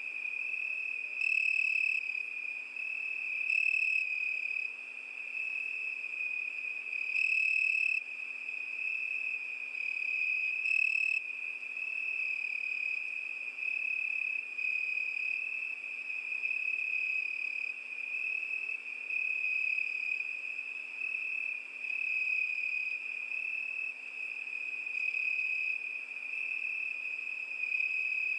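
Crickets chirping in a steady, high-pitched trill, with louder stretches about four times in the first dozen seconds.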